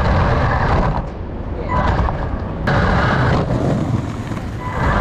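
Radio-controlled toy car driving, heard through the camera strapped to its front: a loud rumble of wheels and wind with a faint motor whine, dropping away abruptly about a second in and again near the end.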